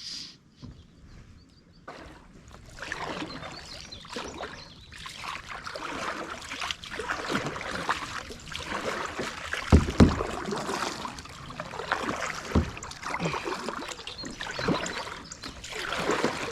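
Water splashing and sloshing against a kayak, starting about two seconds in and going on unevenly, with a loud knock about ten seconds in and a smaller one a couple of seconds later.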